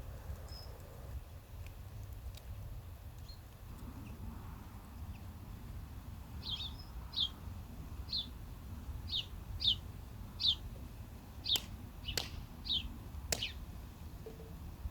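A bird calling a quick series of about ten short, high chirps, each dropping slightly in pitch, starting about halfway through, over a steady low rumble. A few sharp clicks come near the end.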